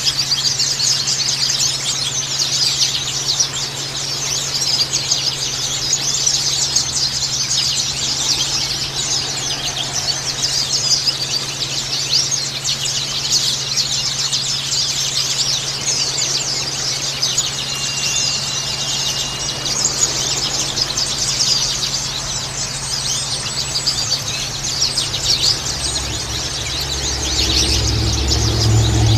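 A chorus of white-eyes (pleci) chirping and twittering in a dense, continuous stream of short high notes over a steady low hum. A low rumble joins near the end.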